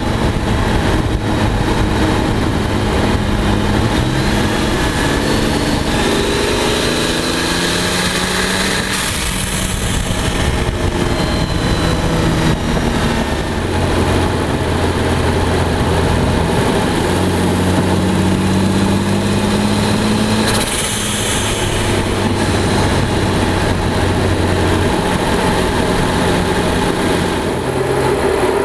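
Twin-turbocharged Mercedes CL600 V12 under way, cruising at steady revs with a few rises in pitch as it revs. Twice, about 9 and 21 seconds in, the blow-off valves let out a short hiss as they vent boost.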